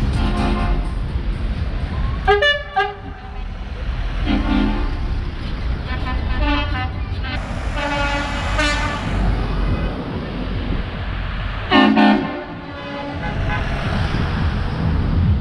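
Vehicle horns tooting in a series of pitched blasts over a steady engine and traffic rumble, with loud blasts a couple of seconds in and again near the end.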